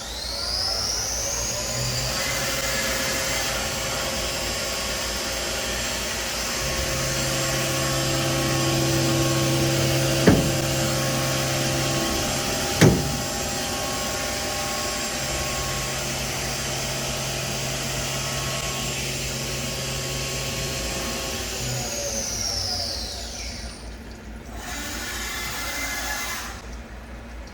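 Milltronics RH33 CNC mill running: a whine rises as the spindle spins up, holds steady with a low hum that comes and goes, then falls away as the spindle winds down. Two sharp clicks sound in the middle, and a brief burst of machine sound follows near the end.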